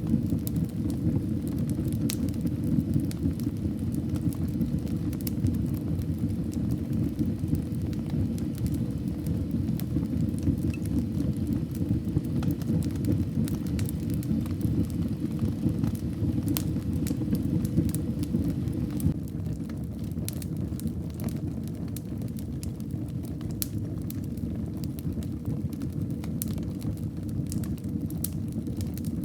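Wood fire burning in a fireplace: a steady low rumble of flames with scattered crackles and pops, a little quieter in the last third.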